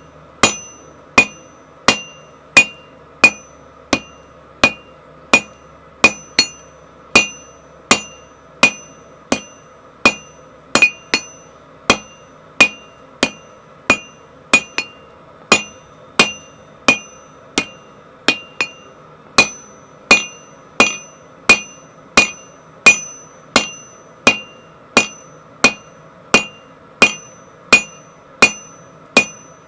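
Blacksmith's hammer striking hot 1060 tool steel on an anvil in a steady rhythm of about one and a half blows a second, each blow with a short metallic ring.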